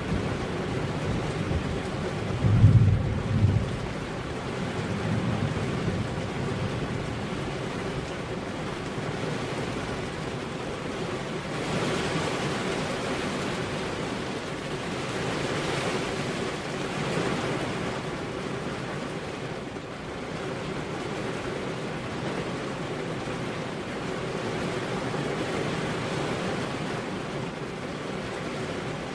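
Steady rain falling, with a rumble of thunder about three seconds in, the loudest moment. The rain swells and eases a few times later on.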